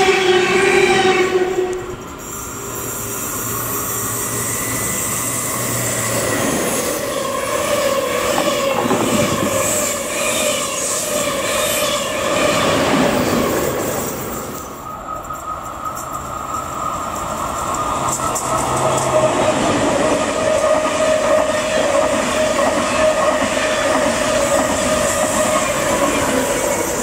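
Container freight train rolling past on the rails, with a steady squealing tone at first and then wheel noise. After a break about halfway through, a TGV high-speed train comes in with a steady whine that lasts to the end.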